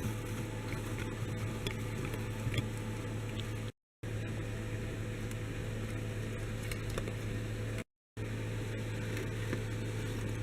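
A steady low hum with faint light clicks over it, broken twice by a split second of dead silence.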